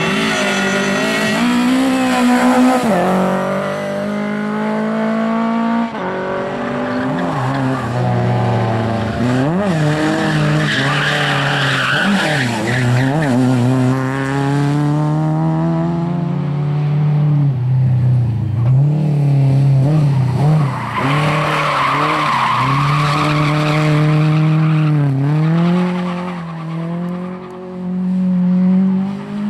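Lada rally cars' four-cylinder engines revving hard through corners, the pitch climbing and dropping again and again with gear changes and lifts off the throttle. Tyres skid and scrub through the corners, most strongly twice in the middle of the passage.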